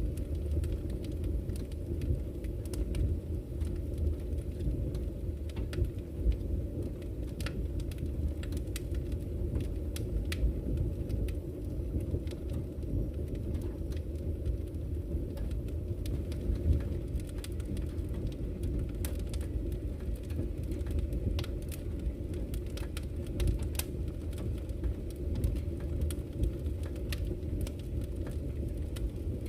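Campfire crackling, with scattered sharp pops and snaps, over the steady low rush of a flowing river.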